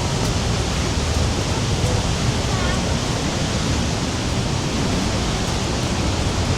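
Rhine Falls' rushing water: a loud, steady, unbroken rush of falling water, with faint voices of people nearby.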